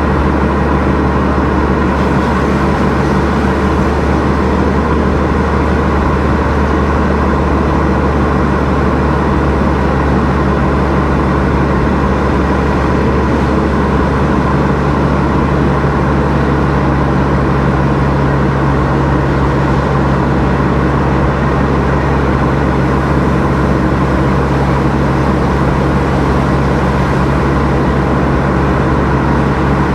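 A car driving along at a steady pace: a constant low engine drone mixed with tyre and road noise, unchanging throughout.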